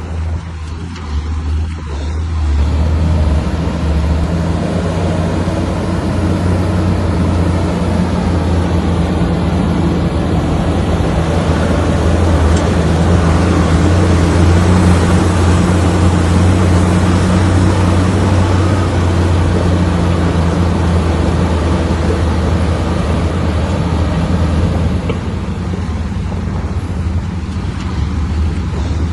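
Komatsu bulldozer's diesel engine working hard under load, its note rising a couple of seconds in, holding steady, and easing slightly near the end.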